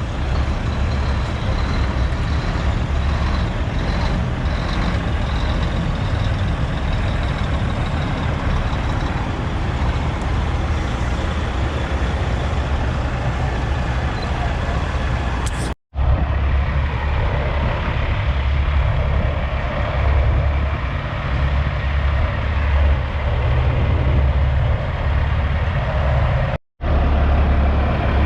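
Heavy diesel truck engines running as big rigs roll slowly past, with a deep steady rumble and two brief dropouts where the footage cuts.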